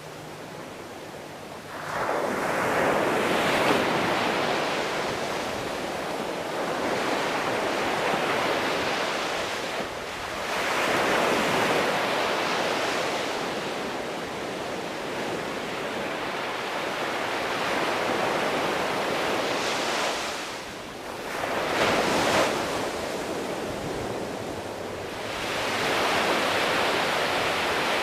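Sea waves breaking and washing onto the shore, rising and falling in several long surges.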